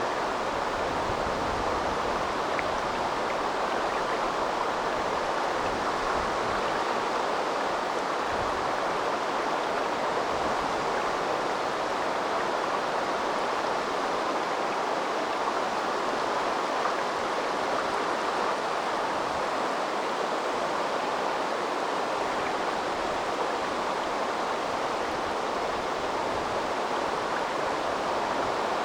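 A river's water running steadily, an even rushing noise that does not change.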